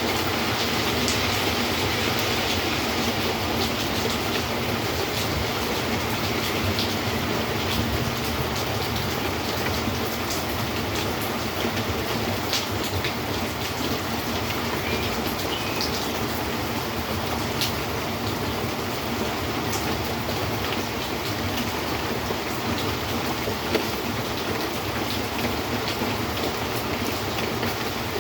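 Steady rain: a dense, even hiss with a low rumble underneath and scattered louder drop ticks.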